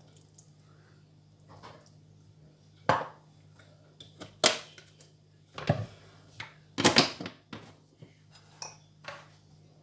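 Kitchen dishes and utensils knocking and clinking: about half a dozen separate sharp knocks and clatters spread over several seconds, over a faint steady hum.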